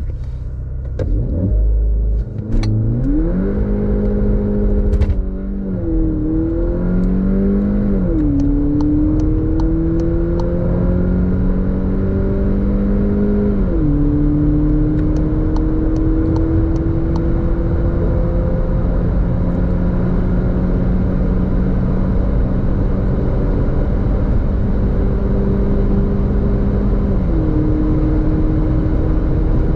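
VW Polo GTI's 2.0 TSI turbocharged four-cylinder under hard acceleration, its exhaust freed by a mid-silencer delete. The engine note climbs through each gear and drops sharply at about four upshifts, with each gear lasting longer as speed builds.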